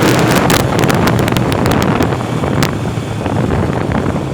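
A vehicle on the move: a steady engine hum under heavy wind noise on the microphone, with a rapid scatter of sharp ticks in the first two and a half seconds.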